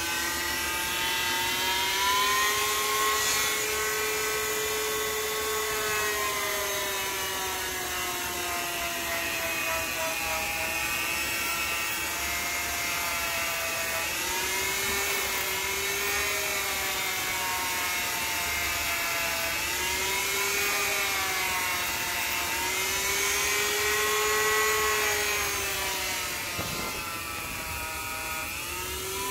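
An electric power tool's motor running with a steady whine whose pitch sags and recovers every few seconds as it is pressed into the work, typical of shaping or sanding a knife's wooden handle.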